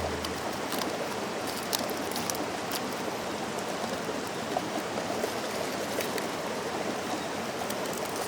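Mountain stream flowing steadily, with a few faint clicks scattered through it.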